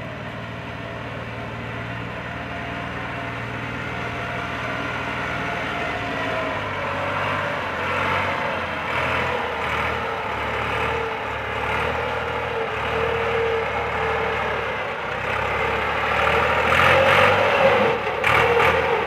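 Massey Ferguson tractor's diesel engine running and revving, growing gradually louder and loudest a couple of seconds before the end.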